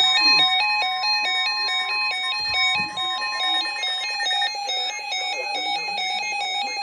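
Electronic weather-alert tone warbling quickly back and forth between two pitches over a steady higher tone, turning into a steadier, rapidly pulsing tone about two-thirds of the way in: the alert signal that precedes a new severe thunderstorm warning.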